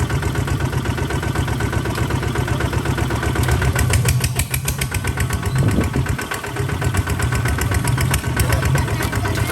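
Kubota RT140 DI single-cylinder diesel engine running steadily with a rapid, even chugging beat, easing slightly about halfway through.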